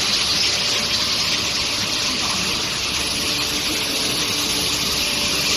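Induction hardening line running: a steady rushing hiss of quench water spray, with a thin, high, steady whine above it.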